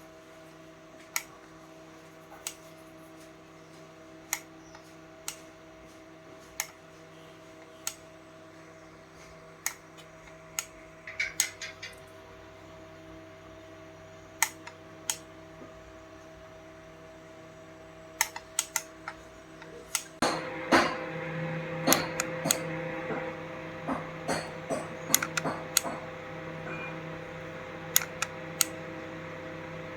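Speaker hum of several steady tones, with sharp irregular clicks and crackles. About 20 s in the hum gets louder and the crackling grows denser: the crackle fault being repaired.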